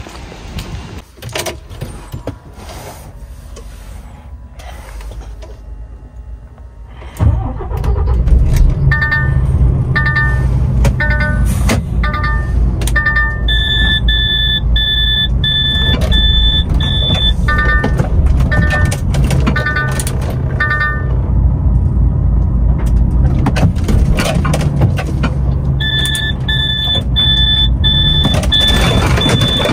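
Truck's six-cylinder diesel engine starts about seven seconds in and settles to a steady idle, while a dashboard warning chime in the cab beeps repeatedly at a high pitch, in two runs. Light clicks and knocks come before the engine starts.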